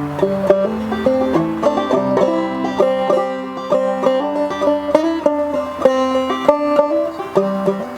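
Acoustic folk song's instrumental break: quick picked notes on plucked strings, with no singing.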